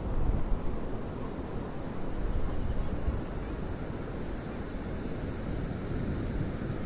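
Surf washing on a beach, with wind buffeting the microphone in uneven gusts.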